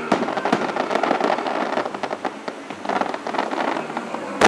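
Fireworks bursting overhead: a dense run of quick crackling pops, with one loud bang near the end.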